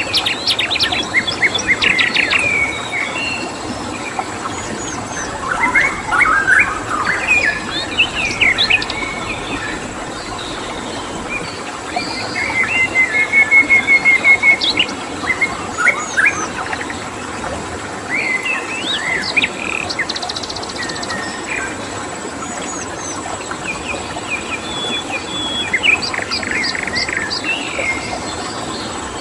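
Several wild birds chirping and calling in short, varied phrases, including a quick trilled run about halfway, over a steady hiss of running stream water and a thin, steady high insect tone.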